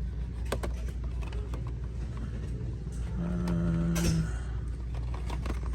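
Light clicks and rattles of carded blister-pack die-cast toy cars being handled on store pegs, over a steady low background hum. About three seconds in, a steady low drone holds one pitch for about a second.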